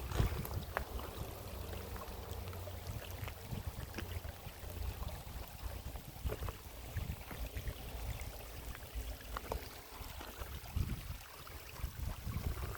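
Running water, with wind buffeting the microphone as a low rumble and a few small scattered knocks.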